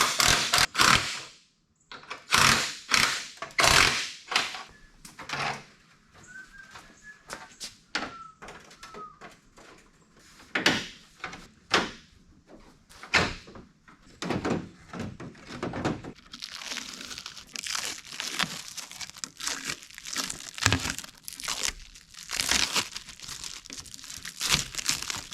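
Irregular knocks, clicks and thunks, with stretches of crinkling and rustling, as plastic corner light assemblies are handled and pushed into place on an old Chevy pickup's front end.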